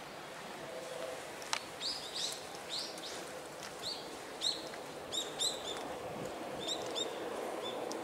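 A bird chirping: a run of short, high calls starting about two seconds in, over steady outdoor background noise.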